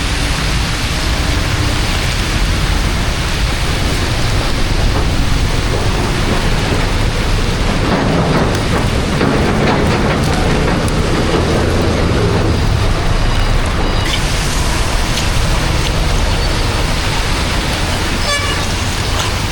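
Steady loud rushing noise of rain and running water on a flooded street, with vehicle traffic; short horn-like tones sound about two-thirds of the way in and again near the end.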